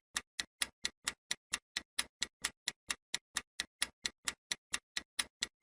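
Ticking-clock sound effect counting down a quiz timer: quick, evenly spaced ticks, about four to five a second.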